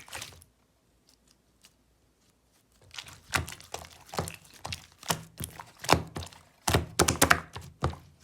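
Melted clear slime being pressed and worked by hand, giving irregular sharp clicking pops. It is almost quiet for the first few seconds, then the pops come thick and fast from about three seconds in.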